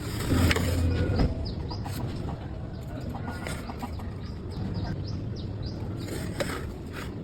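Small birds chirping repeatedly, with a few knocks or clicks in the first second and again near the end.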